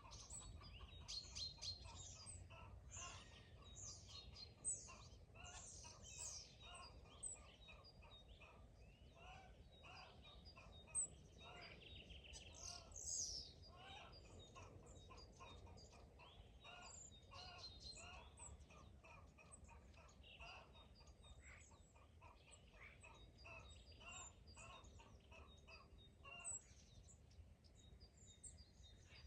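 Faint outdoor birdsong: many small songbirds chirping and trilling, busiest in the first half, with a few louder calls. Domestic chickens cluck now and then beneath them.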